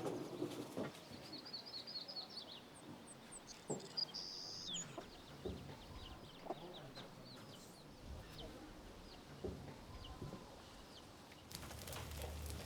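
Birds chirping in short high notes, with a quick run of chirps early on and a brief held whistle around four seconds in. Scattered faint knocks sound underneath.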